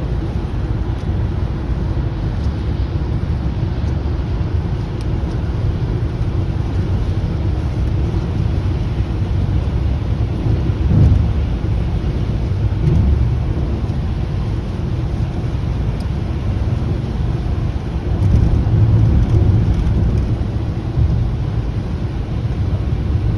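A vehicle driving in the rain, a steady low rumble with rain noise. It swells louder briefly around the middle and again for a couple of seconds later on.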